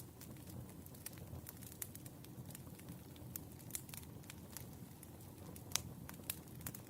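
Wood fire burning, with a low steady rumble and irregular sharp crackles and pops from the burning logs, the loudest pop about six seconds in.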